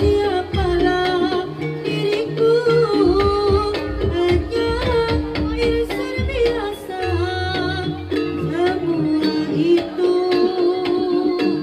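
Live jaranan music: a Javanese ensemble with drums beating steadily under a bending sung or played melody and held notes.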